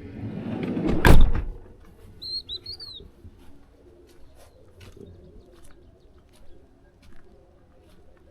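A van's sliding door rolled along its track and slammed shut about a second in. A bird chirps a few times just after, and faint scattered clinks of goat bells follow.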